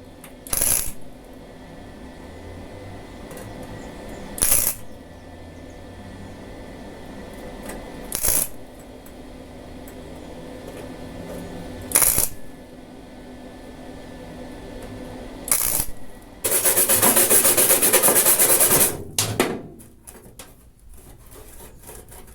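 Electric welder striking short tack welds, five brief crackling bursts a few seconds apart, then running a longer weld of about two and a half seconds near the end.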